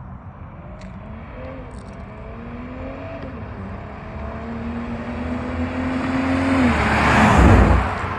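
2022 BMW M340i's turbocharged inline-six, through an Active Autowerke axle-back exhaust with the stock downpipe, accelerating past. The note climbs in pitch, drops about three times as it shifts up, and grows louder until the car passes close by near the end, then it falls away.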